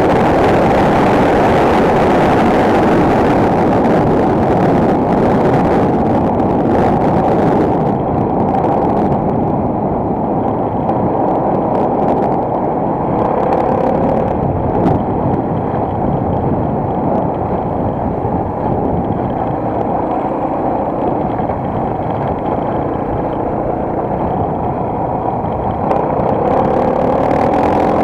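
Single-cylinder enduro motorcycle engine running under way, heard through an action camera mounted on the rider or bike, mixed with rushing wind on the microphone. The sound is steady and loud throughout, its upper hiss dulling about eight seconds in and returning near the end.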